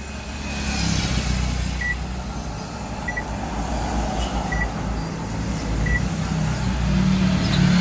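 Whirlpool automatic washing machine's control panel giving four short high beeps about a second and a half apart as its buttons are pressed, over a steady low rumble.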